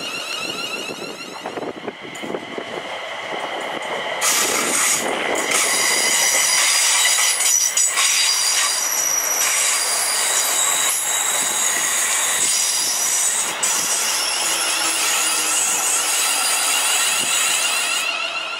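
A ScotRail electric multiple unit passes close by. It comes in suddenly about four seconds in, with loud wheel-on-rail noise and high-pitched squealing tones, and fades away near the end.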